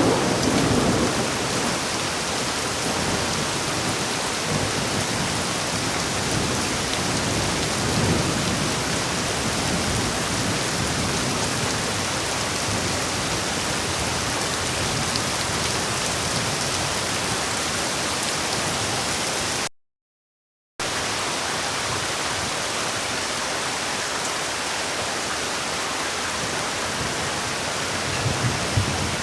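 Heavy rain falling in a steady hiss, with thunder rumbling. A thunderclap's tail fades in the first second, a fainter rumble comes about eight seconds in, and another starts building near the end. About two-thirds of the way through, all sound cuts out for about a second.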